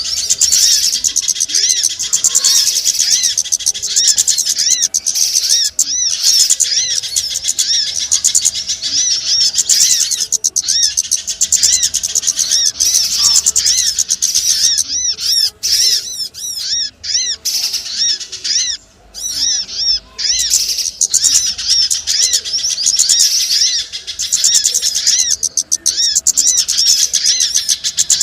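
Bird-lure recording of small birds: a dense, continuous stream of rapid high chirps that rise and fall, with a few short breaks a little past the middle.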